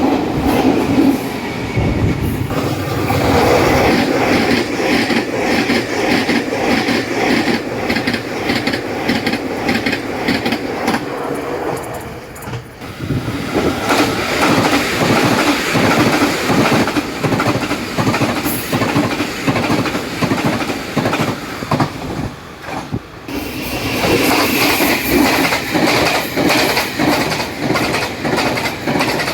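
Taiwan Railways trains passing at high speed, their wheels clattering rapidly over fishplated rail joints, with some wheel squeal. The sound drops and changes abruptly twice, about 12 and 23 seconds in, as one train pass gives way to the next.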